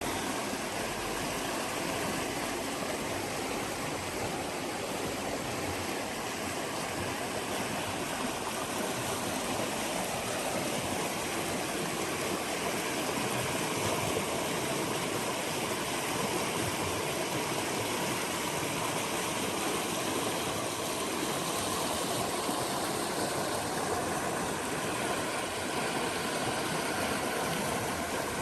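Stream water flowing, a steady, even rush with no break or change.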